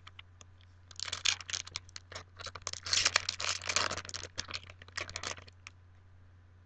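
Foil trading-card booster pack being torn open and crinkled: a few seconds of rapid crackling and tearing, loudest in the middle.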